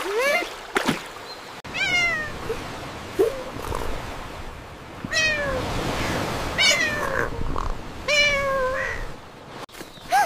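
A cat meowing about six times, spaced a second or two apart, most of the meows falling in pitch.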